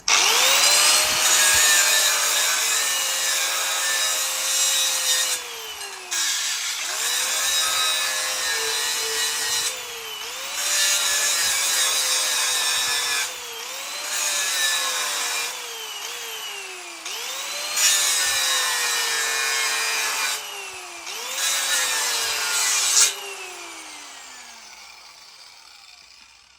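A handheld power grinder run in about seven bursts. Each time the motor spins up quickly with a loud gritty grinding noise, and its pitch sags as it works. After the last burst it winds down over a few seconds.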